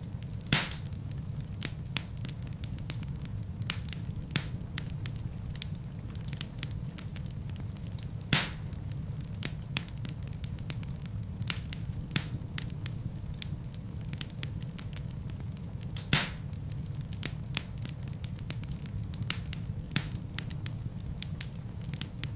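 Fire burning in a fireplace: a steady low rumble of flames with constant small crackles, and three louder pops, about a second in, near the middle and about two thirds of the way through.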